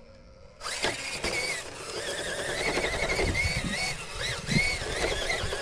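RC crawler truck's electric motor and geartrain whining, starting suddenly about half a second in, the pitch rising and dipping again and again with the throttle. A few low thuds come as the truck works over the obstacle.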